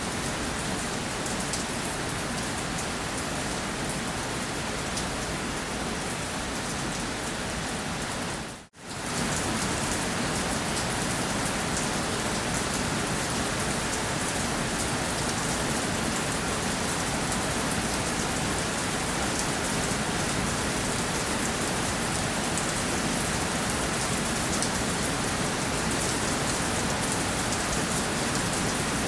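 Steady rain falling, with a brief dropout about nine seconds in, after which the rain is a little louder.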